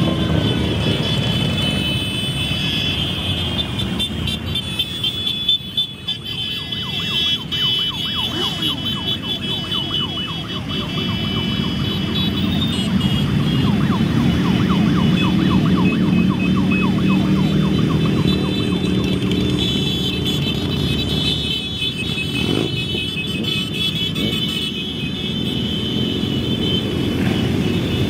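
Many motorcycle engines running as a parade rides past, with a steady high-pitched tone sounding over the rumble for most of the time.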